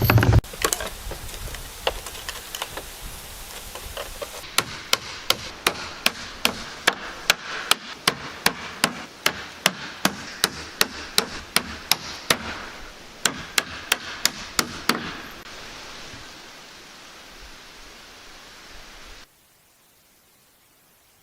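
Hammer driving nails into pallet wood: rapid, evenly spaced strikes, about three a second, for around ten seconds with a short break partway through.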